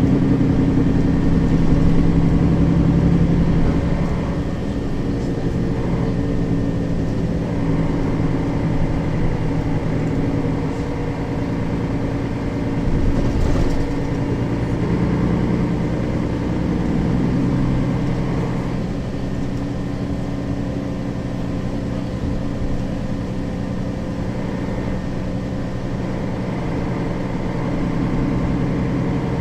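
Mercedes-Benz Citaro city bus's diesel engine running as the bus drives, heard from inside the passenger cabin, somewhat louder in the first few seconds and then steadier.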